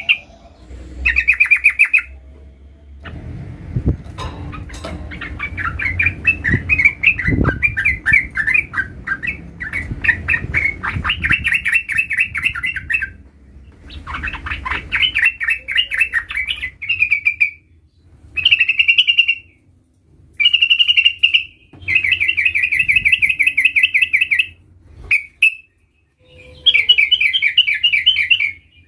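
Yellow-vented bulbul (trucukan) singing in rapid rolling trills, phrase after phrase of fast-repeated notes, each a second or two long with short pauses between.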